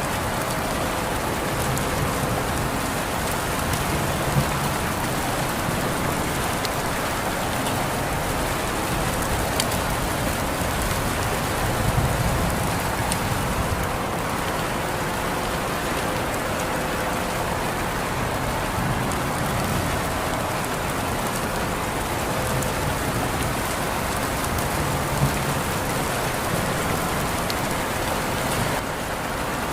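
Steady rain falling and pattering on surfaces, an even hiss with a couple of louder single drop hits.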